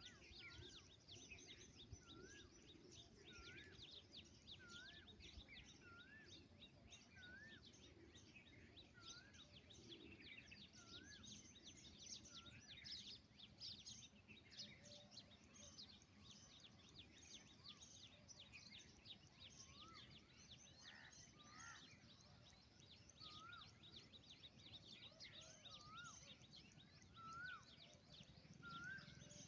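Birds calling outdoors: a dense chatter of high chirps, with one short hooked call repeated about once a second, stopping about a third of the way in and starting again over the last third.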